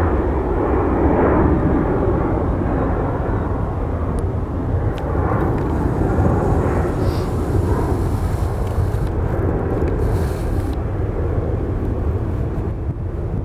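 Boeing 737-900 jet taking off, the broad rushing noise of its CFM56 engines strongest in the first few seconds and then gradually fading, over a steady low rumble.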